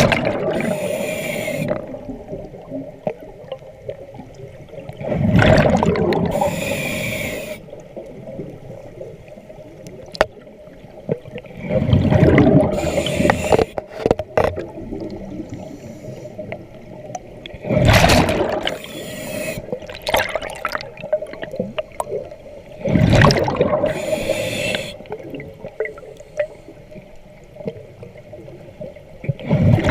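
A diver breathing underwater through a regulator. About every six seconds comes a loud gurgling rush of exhaled bubbles and a hissing breath in, over a steady hum.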